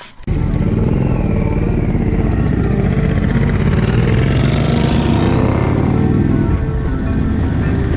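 Motorcycle engine running under way, mixed with music. It cuts in abruptly right at the start, with a pitch rising over the first few seconds.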